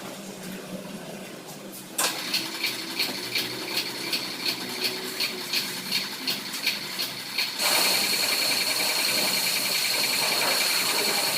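High-pressure washer spray starting suddenly, at first pulsing about three times a second with a high whine, then running as a steady hiss with the same whine.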